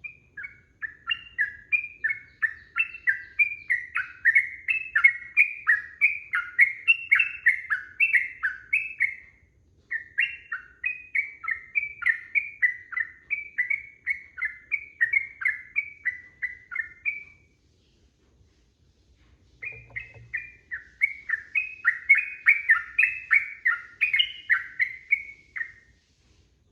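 Yellow-vented bulbul (trucukan) singing in long, rapid runs of bubbling, chattering notes. There are three long bouts, broken by a short pause about nine seconds in and a longer pause about eighteen seconds in.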